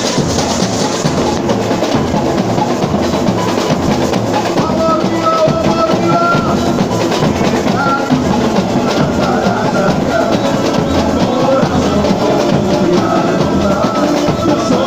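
Samba batería playing: a loud, dense, driving rhythm of bass drums, snare drums and other percussion. About four to five seconds in, a higher melodic line joins over the drums.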